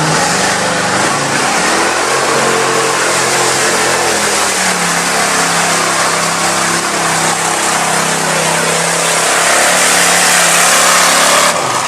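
Off-road 4x4 truck engine running hard at high revs, its pitch climbing over the first couple of seconds and then holding steady, under a loud rushing noise. It cuts off suddenly near the end.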